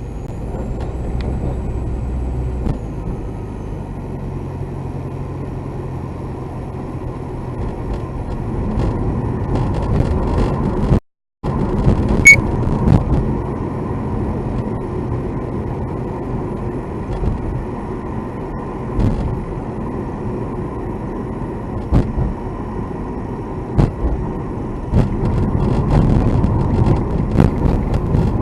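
Steady road and engine noise inside a moving car's cabin, with sharp clicks or knocks every few seconds that come more often near the end: an abnormal noise from the car. The sound drops out for a moment about eleven seconds in.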